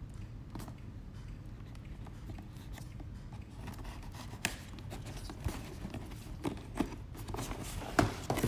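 The tape seal on a cardboard box being cut open, with scattered scrapes and clicks that come more often in the second half and a sharp click about eight seconds in.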